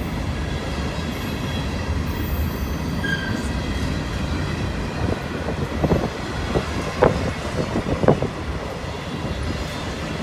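Freight train cars rolling past: a steady low rumble with faint high wheel squeal and a few sharp clacks of wheels over rail joints about two-thirds of the way through.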